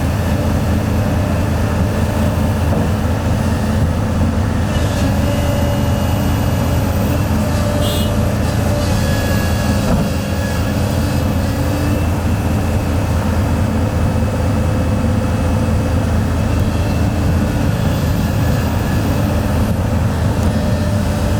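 Heavy diesel engine running steadily, a continuous loud low rumble.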